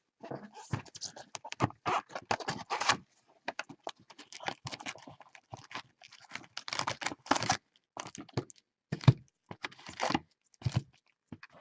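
Typing on a computer keyboard: quick, irregular runs of key clicks with short pauses.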